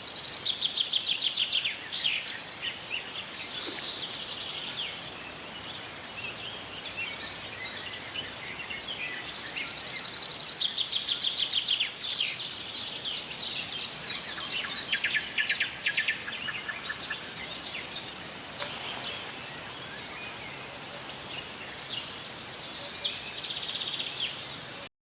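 Birds singing high-pitched, fast trilled phrases that recur every few seconds over a steady outdoor hiss; the sound cuts off suddenly near the end.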